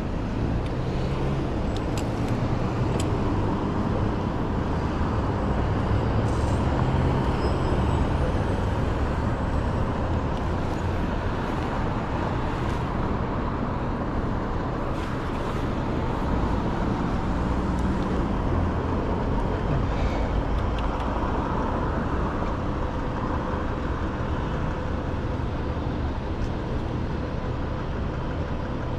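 City street traffic heard from a bicycle riding in it: a steady rumble of passing cars and engines, with a few sharp clicks.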